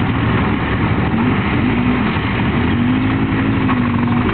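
Motorcycle engine running steadily, with a pitched engine note coming in about a second in and wavering slightly.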